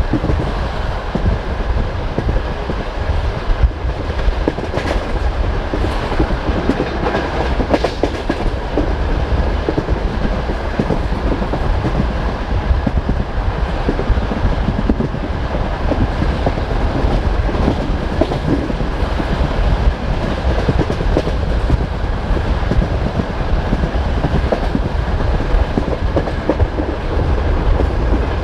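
Passenger train carriage running at speed: a steady low rumble with the clickety-clack of the wheels knocking over the rails, and a faint steady whine above it.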